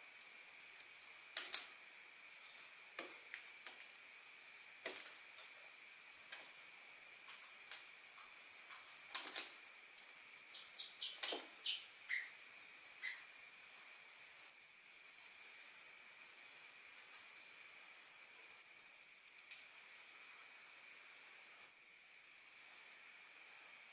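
Orange-headed thrush giving its thin 'ngecis' call: short high whistles that slide downward, repeated six times a few seconds apart. Scattered sharp clicks fall between the calls, and a faint steady high tone runs through the middle.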